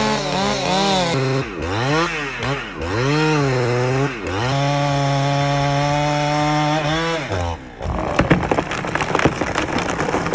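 Ported Husqvarna 395 two-stroke chainsaw on a 42-inch bar revving up and down as it works into the cut, then held at full throttle for about three seconds. Near the end the saw cuts off and is followed by a run of sharp cracks and crackling from the wood as the tree breaks.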